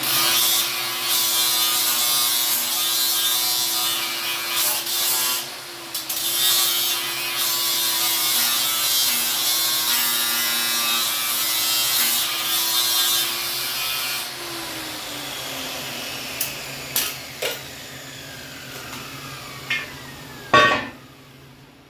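Angle grinder grinding on steel for about fourteen seconds, then switched off and winding down with a falling whine. A few light knocks follow, and a louder metal clank near the end.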